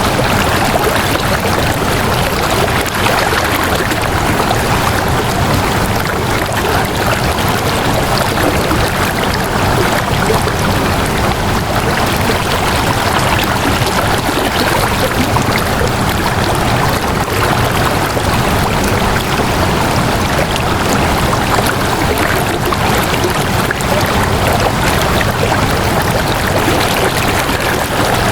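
Water flowing in a steady, unbroken rush, like a stream.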